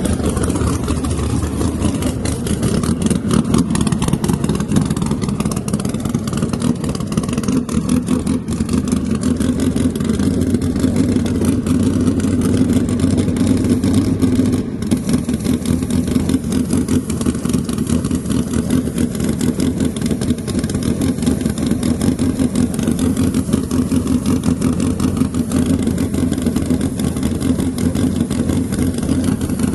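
Drag car engine running steadily at idle for the whole stretch, with only small swells in level and no full-throttle pass.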